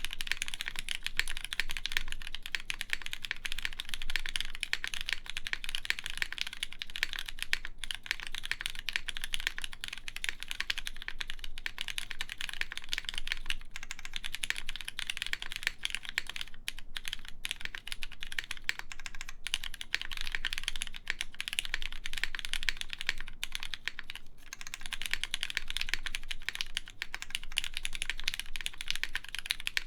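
Continuous fast typing on a mechanical keyboard with lubed Cherry MX Black linear switches, a polypropylene top-mount plate and GMK keycaps. The key strokes are dense and even, with only short pauses.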